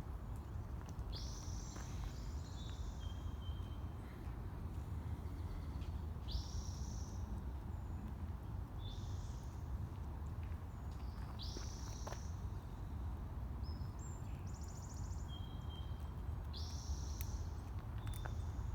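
Birds calling: short, high calls that sweep up and then hold, repeated every two to three seconds, over a steady low rumble.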